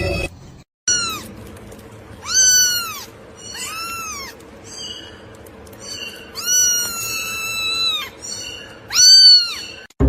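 A domestic cat meowing over and over: about six meows that each rise and fall in pitch, one of them long and drawn out past the middle.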